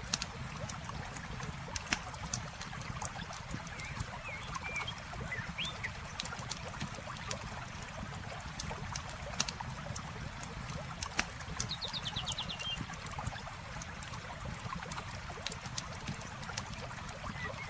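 Campfire crackling with scattered sharp pops over the steady rush of flowing river water. A few short bird chirps come and go, with one quick trill about twelve seconds in.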